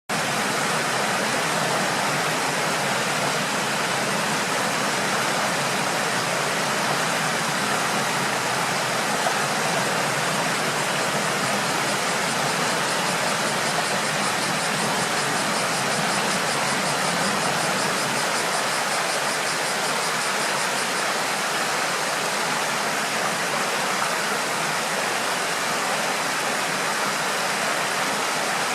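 Steady rush of flowing river water, an even hiss with no breaks. A faint high, rapid pulsing sound runs over it through the middle stretch.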